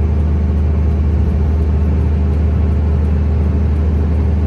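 Heavy truck's diesel engine running steadily, a deep even drone heard from inside the cab.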